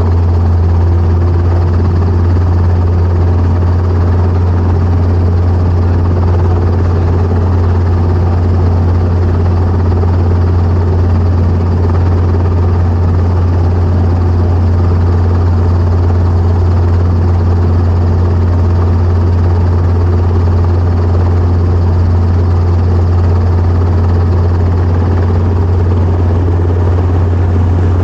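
Training helicopter's engine and rotor running steadily, with a strong constant low hum and no change in pitch or level.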